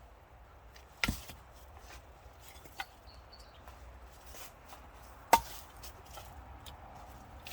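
Two sharp chopping strikes on wood, about four seconds apart with the second the louder, and a lighter knock between them: firewood being chopped or split.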